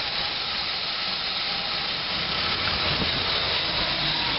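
Steady, even hissing rush from the 1986 GMC Blue Bird school bus's gasoline 366 V8, heard close up at the engine while it runs.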